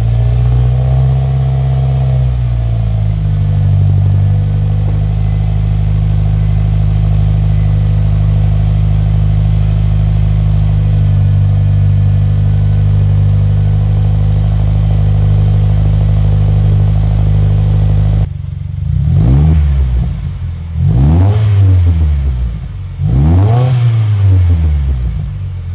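Subaru WRX's turbocharged flat-four running through a newly fitted AWE Touring exhaust with its tips left off: just started, its idle held high for a couple of seconds before settling to a steady idle. Near the end it is revved three times, each rev rising and falling.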